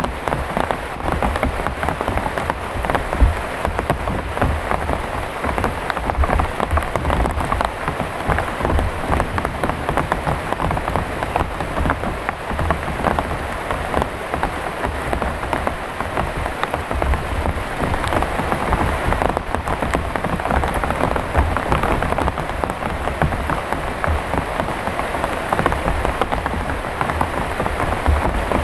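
Heavy rain falling steadily, a dense patter of many drops hitting surfaces without a let-up, with a low rumble underneath.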